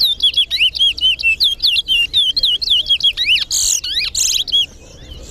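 Caged towa-towa (large-billed seed finch) singing a fast, unbroken run of repeated whistled notes. The song cuts off about a second before the end. This is one competition song, counted by the judge.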